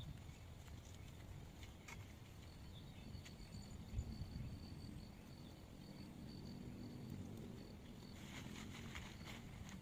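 Faint outdoor ambience: a low rumble under a thin, high, steady trill like an insect's, which runs from about two and a half seconds in until about eight seconds in, then a short patch of clicks and rustling near the end.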